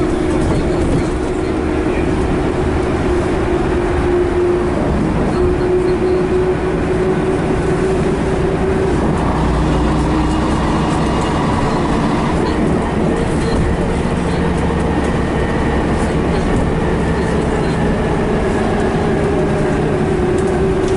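Scania BR111H / MCW Metropolitan double-deck bus under way, its diesel engine and two-speed automatic gearbox running with a low rumble and a steady hum that shifts in pitch a few times as the speed changes.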